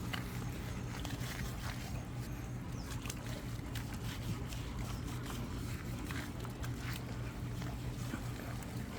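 A steady low mechanical hum, like a small motor running, with scattered faint clicks over it.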